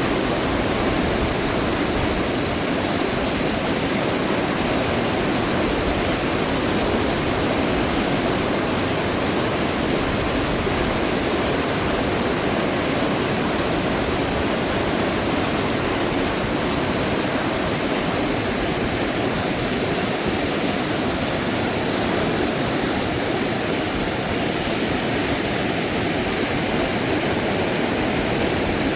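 Swollen, fast-flowing river water rushing steadily, an even hiss-like noise that stays at one level throughout.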